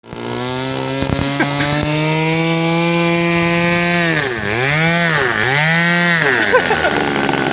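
RC plane's motor running at a steady high pitch, its pitch dipping and coming back twice, then dropping away near the end. A few sharp clicks come about a second in.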